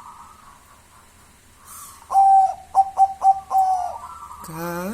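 Zebra dove (perkutut) cooing one phrase about two seconds in: a held note, a few quick clipped notes, then another held note. A chanting voice comes in near the end.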